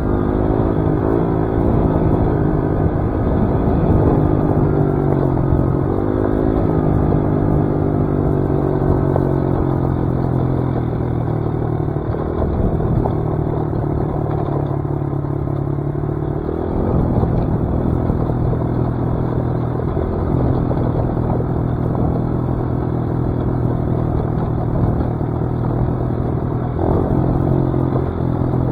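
Dirt bike engine running under a rider, its pitch stepping up and down several times with throttle and gear changes.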